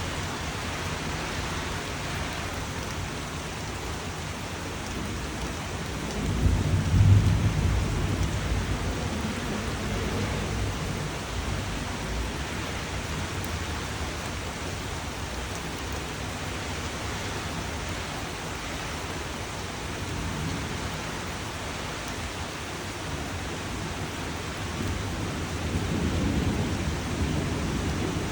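Steady rain with rolls of thunder: a deep rumble swells about six seconds in and fades over several seconds, and another builds near the end.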